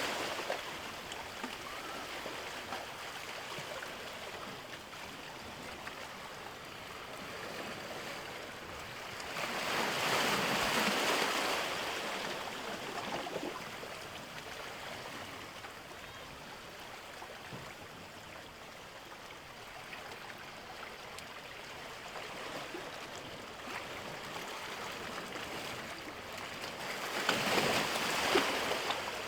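Sea waves washing onto the shore, a steady wash with two louder surges as bigger waves break, about ten seconds in and again near the end.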